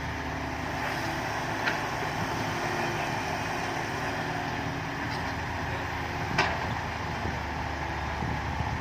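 Six-wheel dump truck's diesel engine running steadily, with two short sharp clicks, one a little under two seconds in and one a little past six seconds.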